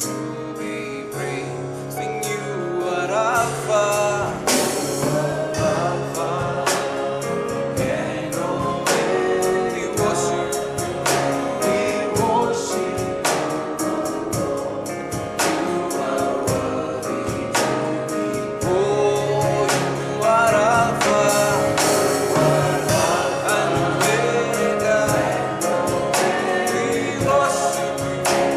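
A gospel worship band and group of singers performing a song together, voices over keyboard chords and a steady drum beat.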